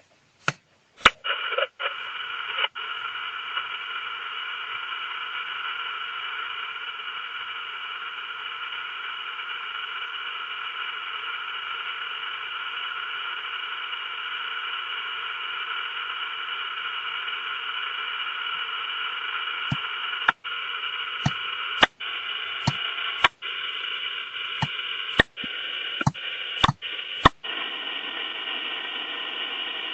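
Steady static hiss with faint steady tones in it, broken by sharp clicks near the start and a run of clicks from about two thirds of the way through, with several brief cut-outs.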